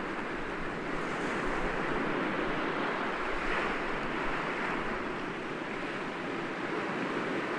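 Sea waves breaking gently against rocks: a continuous wash of surf that swells a little about a second in and eases off toward the end.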